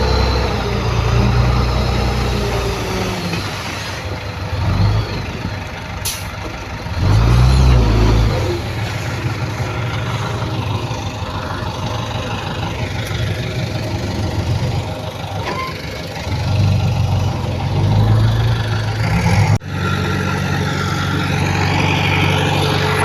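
Diesel engines of heavy earthmoving machinery running under load, the engine note swelling and easing several times. The sound breaks off abruptly about three-quarters of the way through, and a steadier engine sound carries on.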